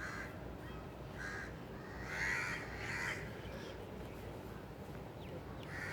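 Crows cawing: about four short calls in the first half, over a steady low background rumble.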